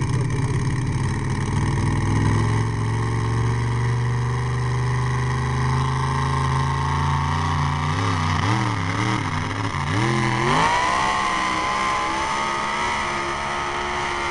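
Pulling tractor's engine running hard under load at a steady pitch, then surging up and down about 8 seconds in before revving up sharply and holding at a higher speed.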